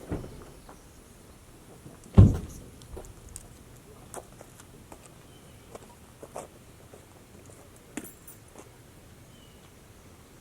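Handling noises: scattered knocks and taps, with one loud thump about two seconds in.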